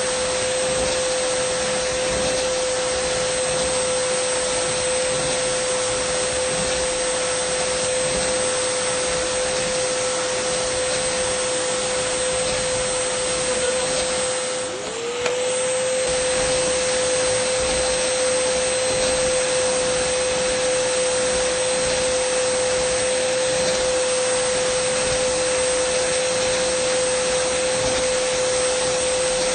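Dyson vacuum cleaner running steadily: a loud hiss of rushing air over a high, steady motor whine. About halfway through, the whine briefly dips in pitch and level, then rises back to speed.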